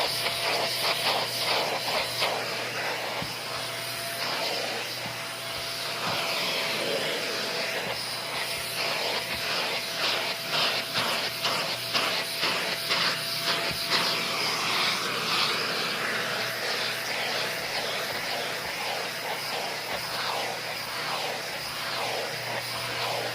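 Repeated short scratchy strokes of a grooming brush being pulled through a dog's fur, over a steady airy drone.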